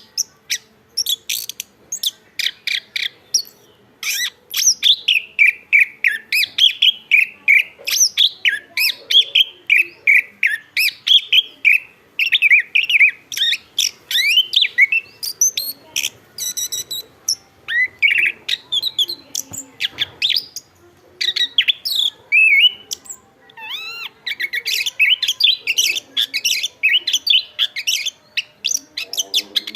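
Chestnut-capped thrush singing continuously: a rapid, varied run of short whistled phrases and chirps, many sliding down in pitch, broken by a few brief pauses.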